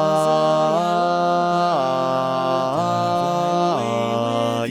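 Barbershop four-part a cappella harmony holding sustained chords on a word, changing chord about once a second, with the bass line at the bottom.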